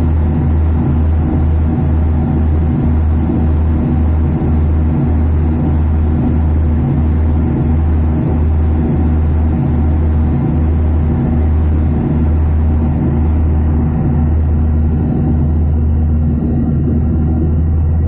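Airliner cabin noise in flight: a loud, steady low drone of engines and airflow with a faint hum over it, unchanging throughout.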